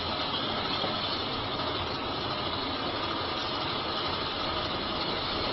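Truck engine running steadily with no change in pitch.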